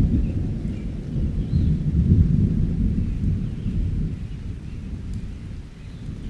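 Thunder rumbling low over steady rain, swelling about two seconds in and fading toward the end, with faint bird chirps above.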